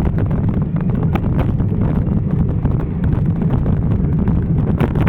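Wind buffeting the microphone of a camera riding along on a moving bicycle: a loud, steady low rumble, with scattered light clicks.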